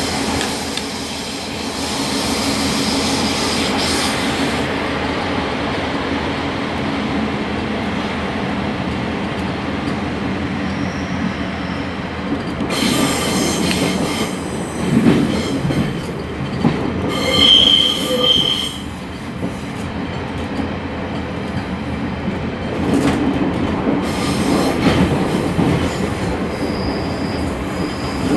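Running noise heard inside a Class 142 Pacer diesel railbus on the move: a steady rumble and rattle, with a few brief high-pitched wheel squeals, the clearest about two-thirds of the way through.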